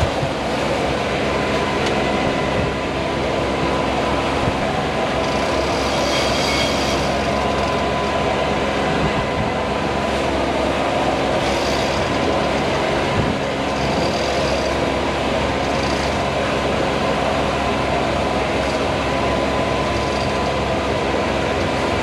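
Sailboat's auxiliary engine running steadily while motoring, with water and wind noise mixed in.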